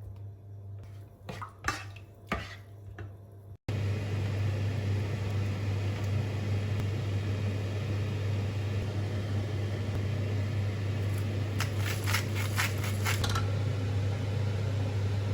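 Kitchen sounds: a few clinks of utensils or dishes. After a cut, a steady hiss with a low hum runs on, with a burst of clattering near the end.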